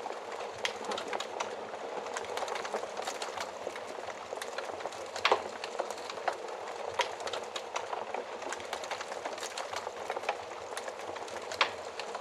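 Wood fire burning in an oven, with a steady hiss of flames and scattered sharp crackles and pops, the loudest about five seconds in and near the end.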